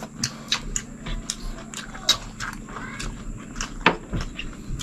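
Close-miked eating sounds of people chewing boiled chicken and rice: wet chewing and lip-smacking clicks, irregular, a few a second.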